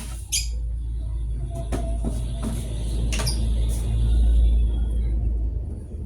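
A steady low rumble, a little louder around the middle, with a few short sharp clicks and taps scattered through it.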